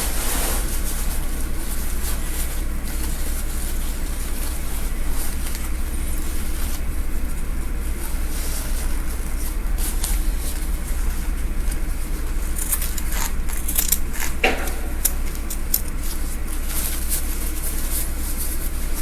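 Scissors snipping and fabric rustling in short, scattered bursts as a gown is cut apart, over a steady low hum.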